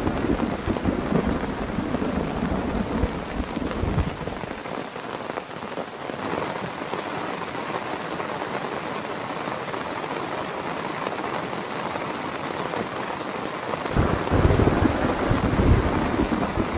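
Heavy rain falling steadily, with a low rumbling in the first few seconds that dies away and comes back near the end.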